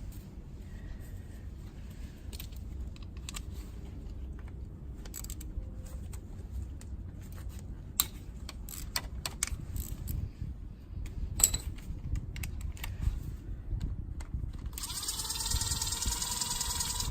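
Hand tools clicking and clinking against metal as bolts are worked loose on a motorcycle engine, over a steady low rumble. Near the end a high whirring tone sounds for about two seconds.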